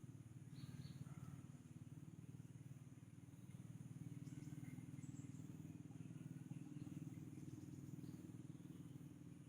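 Near silence: a faint steady low hum, with a few faint, brief high chirps about half a second in and again around four to five seconds in.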